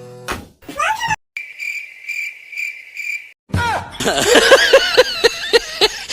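Cricket chirping sound effect: one steady high chirp repeating about twice a second for about two seconds. About three and a half seconds in, a loud stretch of wavering high-pitched sounds takes over.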